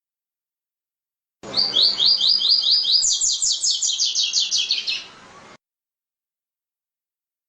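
Double-collared seedeater (coleiro, tui-tui song type) singing one song phrase starting about a second and a half in. It is a quick run of sharp down-slurred notes, about five a second, that jumps higher midway and slides lower toward the end, lasting about three and a half seconds.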